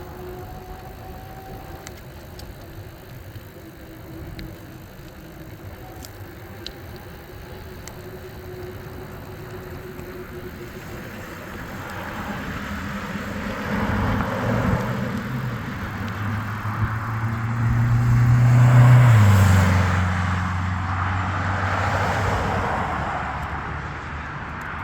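A motor vehicle's engine hum that grows louder from about halfway through, peaks and drops sharply in pitch as the vehicle passes close by, then fades. Before it comes a steady hiss of wind and road noise from the e-bike ride.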